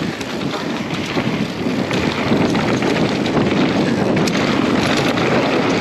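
Wind rushing over the microphone of a ride-along action camera on a mountain bike at speed, getting louder about two seconds in.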